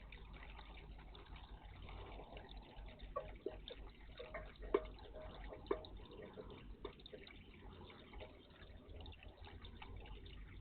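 Water splashing and dripping in a garden bird bath, with a cluster of short sharp splashes from about three to seven seconds in, the sound of small birds bathing.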